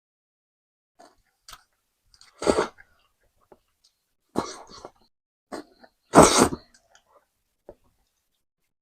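Close-up mouth sounds of someone eating noodles with crackers: three loud short bursts about two seconds apart, with a few faint clicks between.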